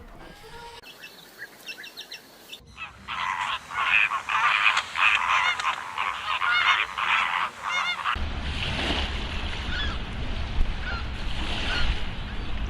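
A flock of birds calling, many short calls overlapping in a dense run. About eight seconds in it changes to a steady low rumble with fewer, scattered calls.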